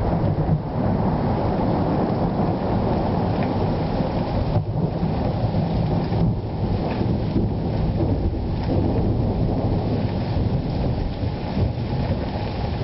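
Thunder rumbling on and on over steady rain during a thunderstorm, the sound deep and dense with no sharp crack.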